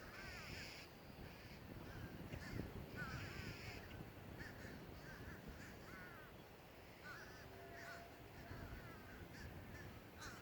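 Crows cawing faintly, a scattered series of short calls, over a low steady background hiss.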